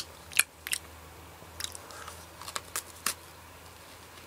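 A person biting and chewing a crunchy cream-filled finger sandwich cookie: a string of short, crisp crunches over the first three seconds, then quieter chewing.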